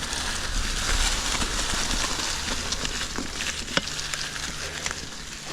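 Mountain bike rolling along a trail: a steady rushing hiss of tyres on the ground, with scattered clicks and a sharper knock a little before four seconds in.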